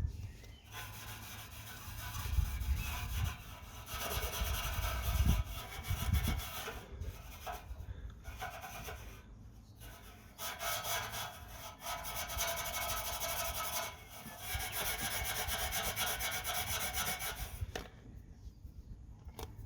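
Wire wool loaded with metal polish scrubbing an exhaust tip in long back-and-forth spells, with short pauses between them. A few dull bumps sound in the first several seconds.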